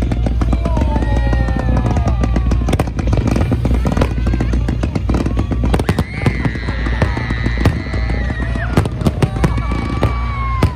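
Fireworks display: aerial shells bursting one after another with crackling, dense and continuous, over a low rumble. Music with held tones plays along underneath.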